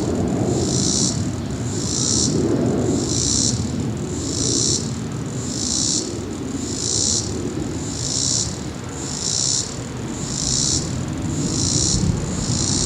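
Jet aircraft climbing out of Reagan National rumbling low and steady. Over it, insects buzz high-pitched in regular pulses about once a second.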